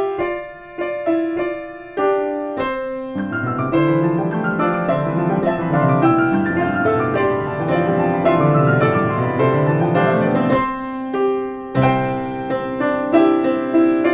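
Solo piano playing a slow, gentle piece: separate notes and chords at first, then about three seconds in a flowing passage of rolling arpeggios that rise and fall, thinning back to sparser chords near the end.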